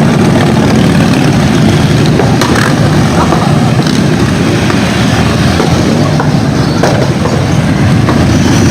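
Motorcycle engines running close by: a loud, steady low rumble.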